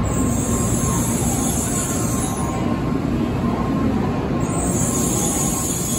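N700-series Shinkansen rolling slowly into the platform, a steady rumble of wheels on rail. A high-pitched squeal sounds at the start, dies away after about two and a half seconds, and comes back about four and a half seconds in.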